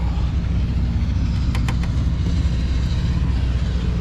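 Car engine idling with a steady low rumble, with a few faint short clicks about halfway through.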